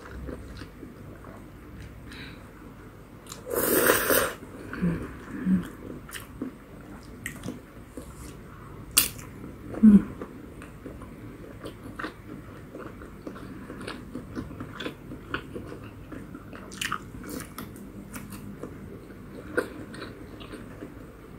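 Close-miked eating sounds: a person chewing spicy instant ramen noodles and sausage, with many small wet mouth clicks. One loud noodle slurp about four seconds in.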